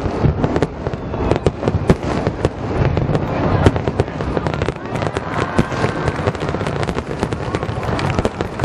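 A finale barrage of aerial firework shells bursting one after another, many booms a second over a continuous rumble, with crackling.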